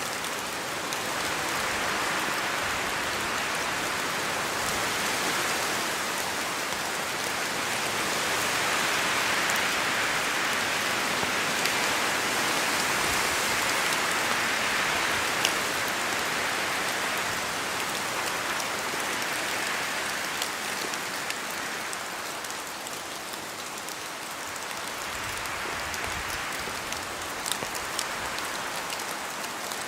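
Steady rain falling in a spruce forest, drops pattering off the trees, with wind through the branches swelling and easing every several seconds.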